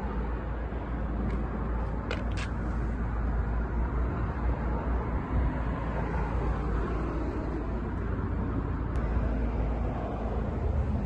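Porsche 996 GT3's flat-six engine idling steadily, with a deep low rumble and a couple of faint clicks about two seconds in.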